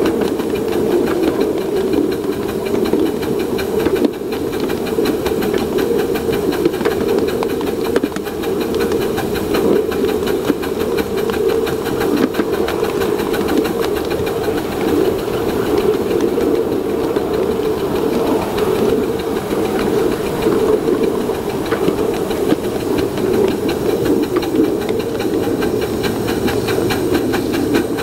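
7½-inch gauge live-steam K-4 locomotive running, with a steady hiss of steam.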